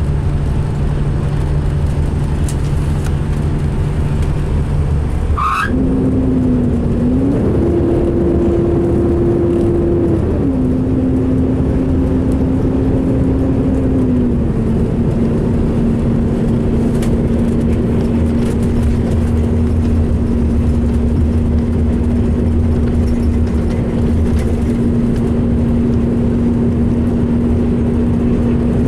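2005 MCI D4500 coach's drivetrain running underway, a steady engine and driveline whine over road rumble, sounding rough. About five seconds in a brief rising chirp cuts in and the whine jumps higher in pitch, steps up again for a few seconds, then drops back and holds steady.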